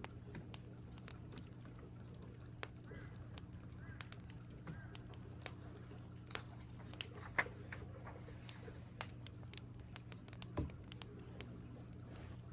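Scattered keyboard key clicks and fire crackles over a steady low hum, with a crow cawing three times about three to five seconds in.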